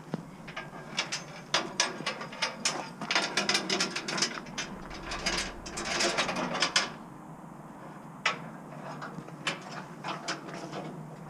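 Trailer hitch hardware being worked: a dense run of metallic clicks and rattles for about seven seconds, thinning to scattered clicks.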